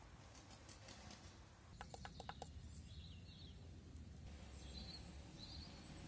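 Near silence: faint outdoor ambience with a low steady rumble and a few distant bird chirps, including a quick run of short notes about two seconds in.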